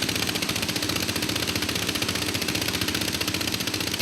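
Engine of a river gold-mining dredge running steadily with a fast, even chugging pulse.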